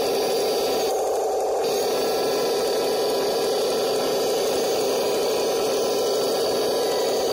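1:16 scale RC M26 Pershing tank with metal tracks running, a steady mechanical whirr and clatter from its drive and tracks. A higher-pitched layer drops out briefly about a second in, then returns.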